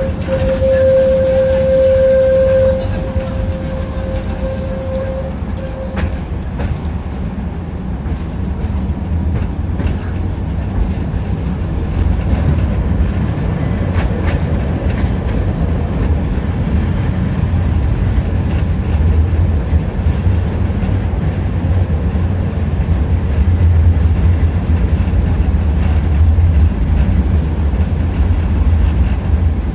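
Tram running on its rails: a steady low rumble of wheels and running gear with a few light clicks over rail joints. A steady high whine sounds over it for the first few seconds, then fades away.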